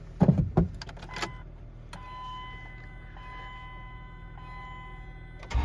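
A few clicks, then a steady electric whine of several fixed tones lasting about three and a half seconds: the 2004 Dodge Dakota's fuel pump priming with the key on. The starter begins cranking right at the end, on a cold engine that is reluctant to start.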